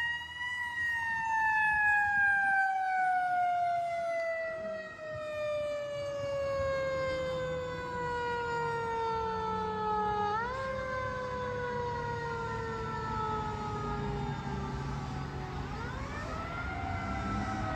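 Fire engine's mechanical siren slowly winding down in pitch, spun back up about ten seconds in and again near the end, over the low rumble of the truck's engine.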